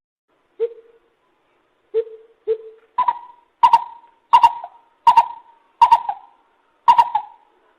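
Lesser coucal calling: three deep hoots, then a run of six higher, sharper notes at a steady pace of a little over one a second.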